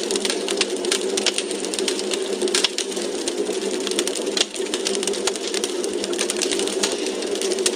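Wood fire crackling: a dense, irregular stream of small pops and snaps over a steady hiss of burning logs.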